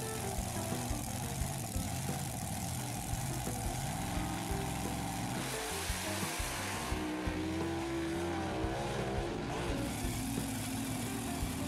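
Animated-cartoon vehicle engine sound effects mixed with background music that has a steady beat, with a wavering pitched sound in the middle.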